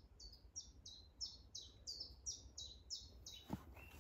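A small bird singing a steady run of about ten short high notes, each sliding down in pitch, roughly three a second. A single sharp knock comes about three and a half seconds in.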